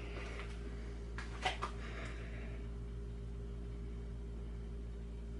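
Steady low hum with a faint pulsing beat, broken by two light clicks about one and a half seconds in.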